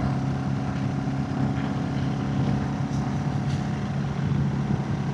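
Royal Enfield motorcycle engine running at a steady, even pitch while riding uphill, with wind and road noise.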